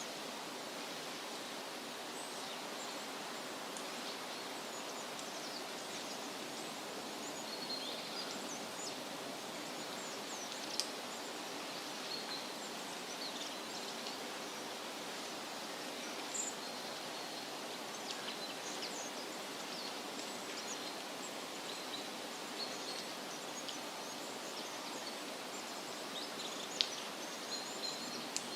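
Steady rustling of wind through leafy trees, with scattered short bird chirps and calls throughout and a couple of sharp clicks, at about 11 s and near the end.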